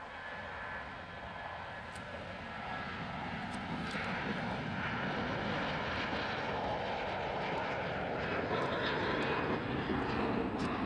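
Jet airliner's engines heard as a steady rushing roar that swells louder about four seconds in as the aircraft passes.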